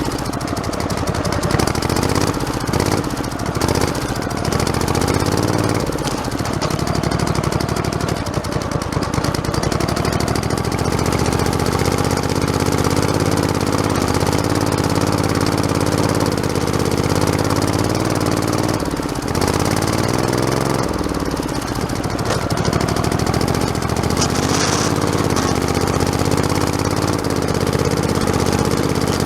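Small engine of a modified lawn tractor running under way, its note dropping and picking up again a couple of times as the throttle and load change, with a fast rattling pulse running through it.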